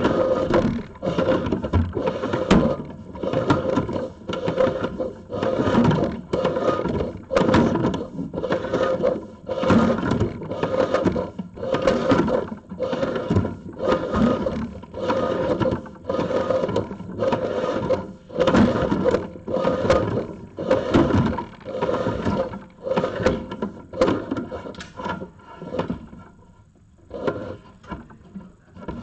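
Inspection camera's push cable scraping and rubbing along the inside of HVAC ductwork in a quick, repeated series of strokes, dying away near the end.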